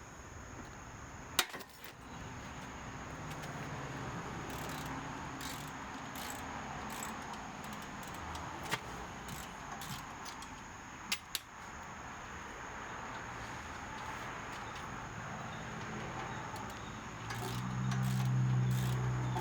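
Metal clinks and clicks now and then over a steady background hum, with a low drone swelling near the end.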